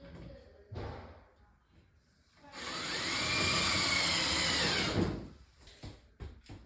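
Power drill running for about two and a half seconds, its motor pitch rising and then falling as it speeds up and slows down. A short burst comes before it, and a few sharp clicks and knocks follow.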